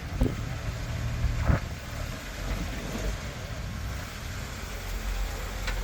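Off-road Jeep's engine running low and steady at crawling speed on a rock climb, with a couple of short knocks near the start and about a second and a half in.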